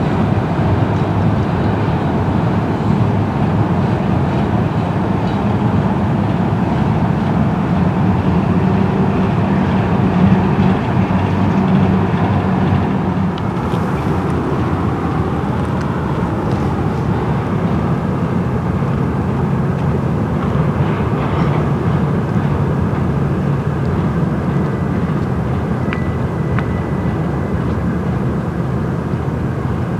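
A train running, a steady loud rumble with a low engine note, easing slightly about halfway through.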